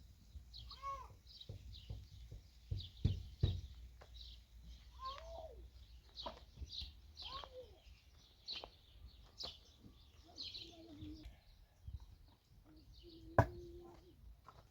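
Small birds chirping over and over, a cat meowing three times, and a few sharp knocks, the loudest near the end.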